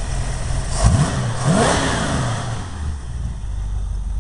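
Dodge Dart's 360 V8 running through a home-built exhaust with Thrush glasspack mufflers, idling with a lopey cam. About a second in the throttle is blipped: the engine revs up twice in quick succession, then falls back to idle.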